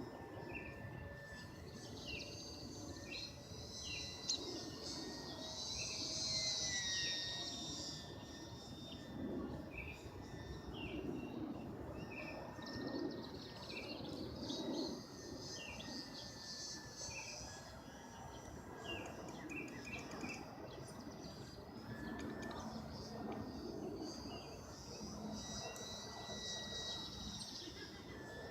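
Insects and birds chirping in short, repeated calls, with gusty wind on the microphone. A faint, steady whine from the small electric motor of an RC model plane runs underneath, rising and falling in pitch once as the plane passes, about six seconds in.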